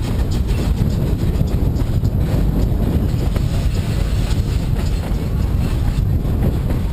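Narrow gauge train rolling along the track: a steady low rumble with faint, irregular clicks of the wheels on the rails.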